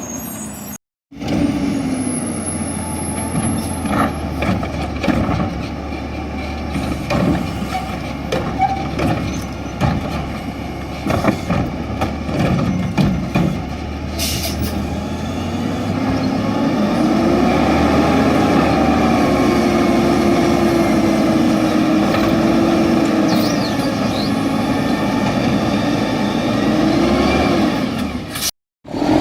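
Diesel garbage truck running through a pickup, with clatter and knocks of trash and cans, and a short hiss of air brakes about halfway. In the second half the engine revs up and down, as it does when the hydraulic packer compacts the load.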